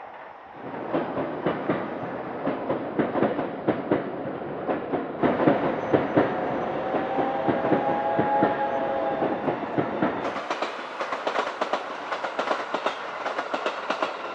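A train running past on the rails, its wheels clattering over the track, with a steady pitched tone lasting a few seconds in the middle.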